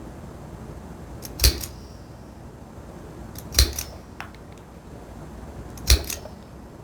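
Three sharp strikes of a hammer on a hole punch, driving holes through leather for eyelets, each blow followed by a lighter tap.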